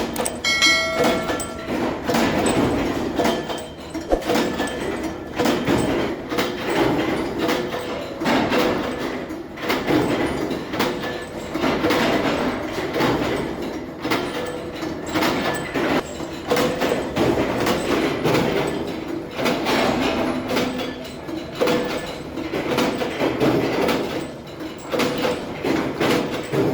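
Metal-working machinery in a bolt factory running, with a continuous irregular clatter of metal knocks and rattles and a brief metallic ring about half a second in.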